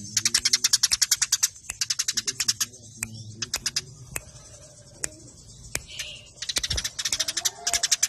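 Eurasian tree sparrows chirping in fast, tight runs of sharp chirps, about ten a second, broken by short pauses: the excited chatter of sparrows fighting.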